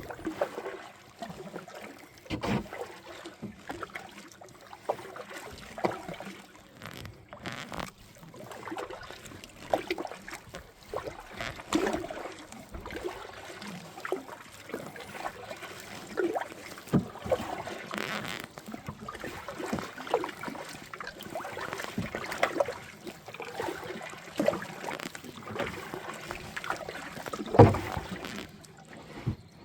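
Kayak paddling: the paddle blades splash and drip in the water in an irregular rhythm, with a few louder thumps against the boat.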